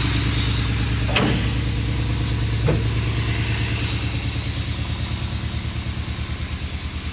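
1959 Mercedes-Benz 219's inline-six engine idling steadily with an even pulse, growing gradually fainter toward the end. A sharp click about a second in, and a lighter one near three seconds.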